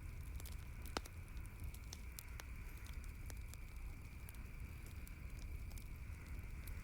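Campfire burning and crackling, with irregular sharp pops, the loudest about a second in, over a steady low rumble of the flames.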